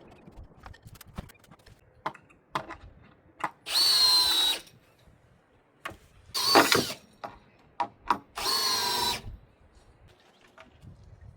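Power drill run in three short bursts of about a second each, its motor whining as it spins up, driving screws into wood. Scattered knocks and clicks come between the bursts.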